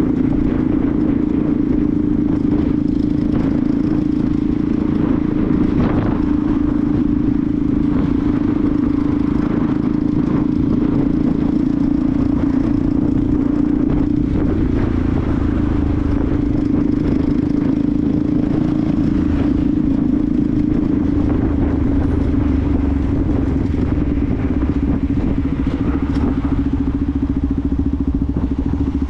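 Benelli TNT 125's single-cylinder 125cc four-stroke engine running at a steady, even speed, with a slight change in its low rumble about two-thirds of the way through.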